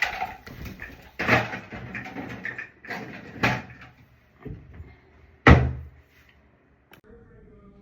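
Clattering knocks of things being handled and put down, then a door shutting with a sharp thud about five and a half seconds in, and a small click near the end.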